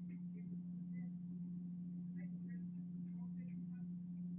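A steady low hum, with faint, indistinct voices in the background.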